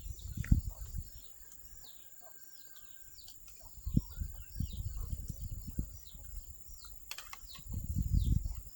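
Small birds chirping over and over in short, quick, falling notes. Bursts of low rustling and knocking come and go beneath them, the loudest near the start and near the end.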